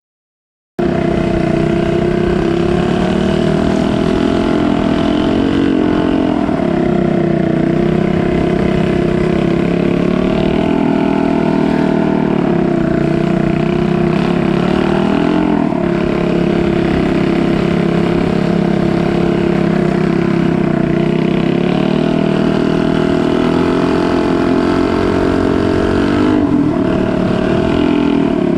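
Boat engine running loud and steady, its pitch wavering a little. It cuts in abruptly from silence under a second in.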